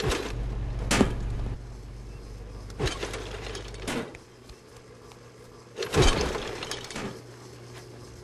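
Projectiles striking an outdoor air-conditioning unit: a series of sharp impacts and crashes, about five of them, the loudest about six seconds in, over a low rumble that stops about four seconds in.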